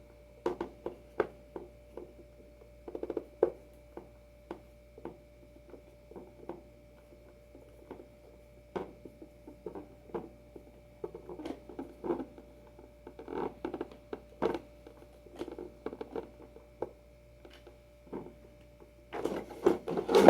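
Screws being hand-driven into a Waterborne surfskate adapter on a longboard: irregular small clicks, ticks and handling noises from the screwdriver and hardware, busier near the end, over a faint steady hum.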